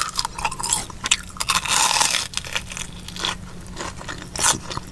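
Close-up crunching of a crispy, batter-coated Korean corn dog being bitten into and chewed, a run of crackling crunches with the loudest, densest crunch about two seconds in.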